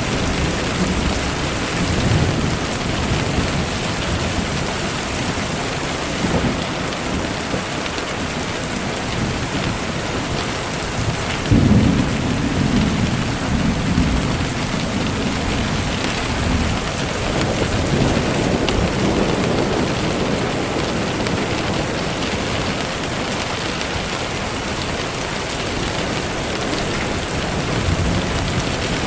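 Steady rain falling. About a third of the way in comes a sudden low rumble of thunder that rolls on for a few seconds, and a softer rumble follows several seconds later.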